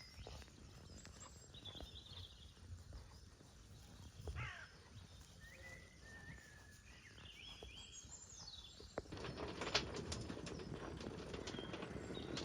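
Small birds chirping and whistling in the background. About nine seconds in, a louder rustling, crackling noise starts and carries on.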